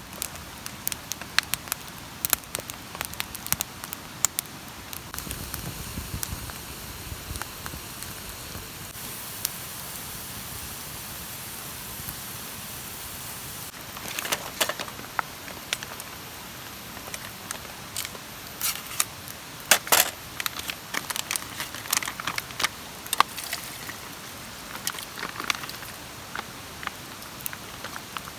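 Steady rain hiss with many sharp ticks and pops scattered through it: raindrops hitting a tarp and a wood campfire crackling. A brighter hiss runs for a few seconds about nine seconds in.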